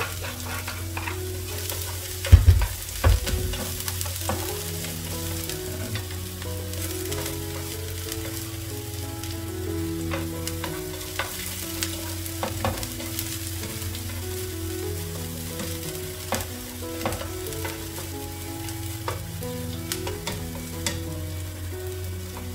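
Minced garlic sizzling in hot oil in a nonstick frying pan, stirred with silicone-tipped tongs that click now and then against the pan. A loud thump about two and a half seconds in.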